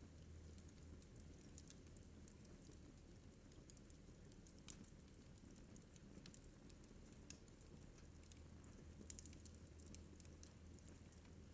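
Wood fire in a fireplace crackling softly: scattered small pops and ticks, some in quick clusters, over a faint low steady hum.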